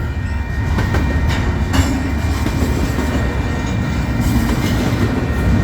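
Freight train cars rolling past close by: a steady low rumble of wheels on rail, with sharp clacks as the wheels cross rail joints, twice in the first two seconds.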